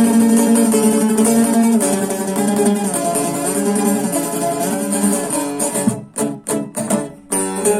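Instrumental music played on a plucked string instrument, with held notes through most of it, a run of short separate strokes with gaps about six seconds in, and a chord ringing on near the end.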